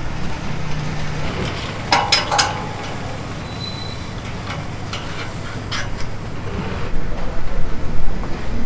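Restaurant kitchen noise: a steady low rumble with a few sharp metal clinks about two seconds in, and busier clatter near the end.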